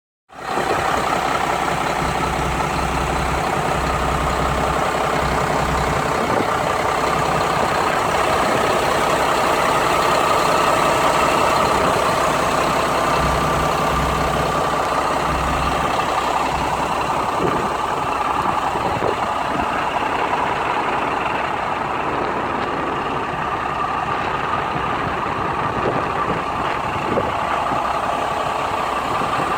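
Big truck's Cummins diesel engine idling steadily.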